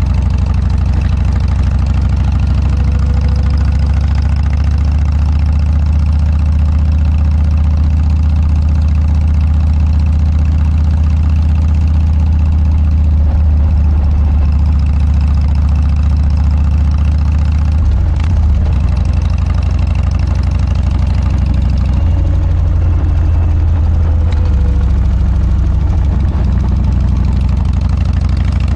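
Harley-Davidson Dyna's V-twin engine running steadily through a Motorstage aftermarket muffler, a loud, deep exhaust note with a brief wobble in the low tone about two-thirds through.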